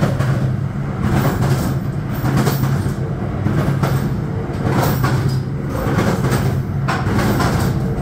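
Running noise of a Bombardier MultiLevel commuter train at speed, heard from the open gangway between two cars: a steady low hum under a loud rumble, with irregular surges of wheel and rail noise and scattered clicks and knocks.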